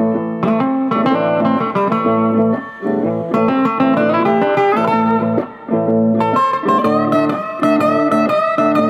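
Blues guitar music: plucked guitar playing a run of notes, with a held, bending lead note in the last few seconds.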